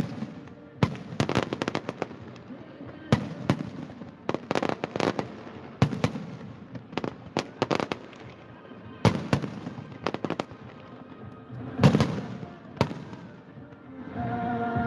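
Fireworks going off in irregular clusters of sharp bangs and crackles, with the loudest burst about twelve seconds in. Near the end the bangs stop and music comes in.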